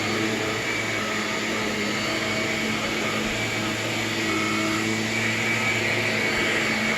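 Vacuum cleaner running steadily as it is pushed across the floor: a constant motor hum with a thin high whine.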